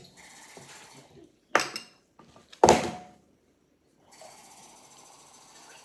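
Kitchenware clinking and knocking three times, then water running steadily from about four seconds in, as water is measured out for pancake batter.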